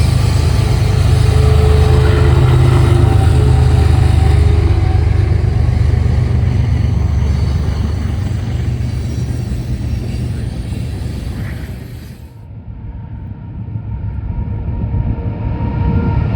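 Loud, steady low rumble of a passing train. It dies away about twelve seconds in, then builds again near the end.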